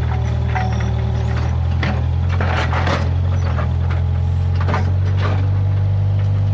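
Case 580G backhoe loader's diesel engine running steadily, with scattered sharp cracks and snaps over it, the loudest about two and a half seconds in.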